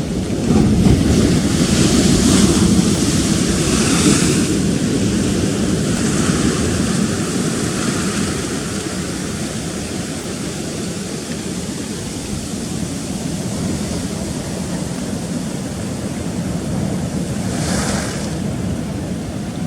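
Rough sea surging and breaking against rocks: a steady rush of surf, swelling loudest in the first few seconds, with another wave washing in near the end.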